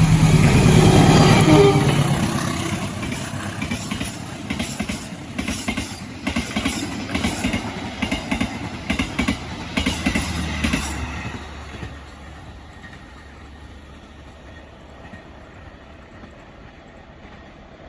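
Train passing close by: a locomotive's engine is loud at first, then the wheels clack over the rail joints in a quick rhythm. It fades away after about eleven seconds, leaving a low hum.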